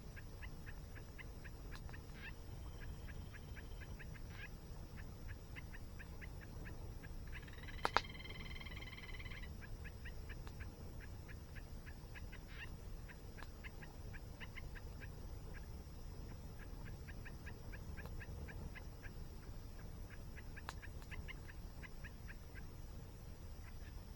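Birds calling in fast runs of short repeated notes over a low steady rush of falling water, with one sharp crackle from the campfire about eight seconds in.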